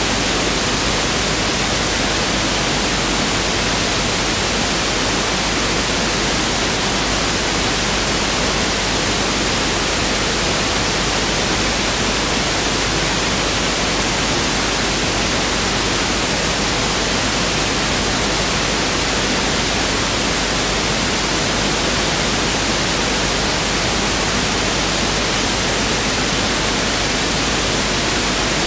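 Pink noise test signal (1/f noise): a steady, even hiss with equal energy per octave, unchanging throughout.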